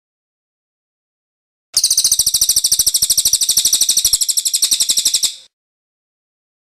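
Cililin bird singing its rolling trill: a rapid, even run of high chirps that starts almost two seconds in and lasts about three and a half seconds, between gaps of silence.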